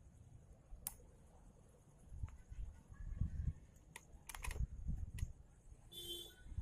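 Scattered sharp clicks and taps over low thuds: hand tools and metal parts being handled during motorcycle front brake cable work.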